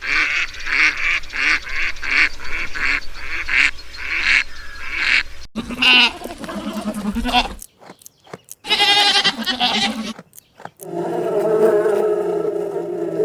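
Several different animal calls edited together, with abrupt cuts between them. First a quick series of short repeated calls, about three a second, for some five seconds; then livestock bleating broken by brief gaps; then a steady, wavering drone from about eleven seconds in.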